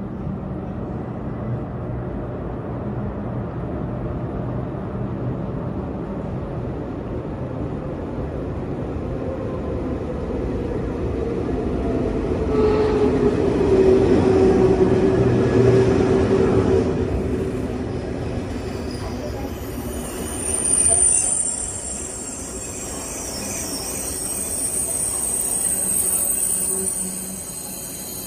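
A train running through a station: a rumble that builds to its loudest about halfway through, with a steady hum over it, then eases. High, thin squealing tones come in over the last third.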